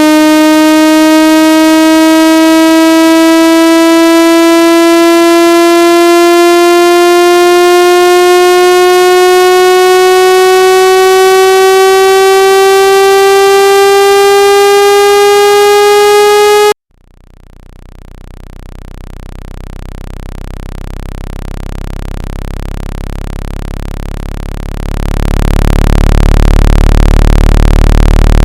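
Synthesized water-ejection tone for clearing water from a phone speaker: a buzzy tone slowly rising in pitch for about 17 seconds, then cutting off suddenly. A low buzzing drone fades in after it and grows louder near the end.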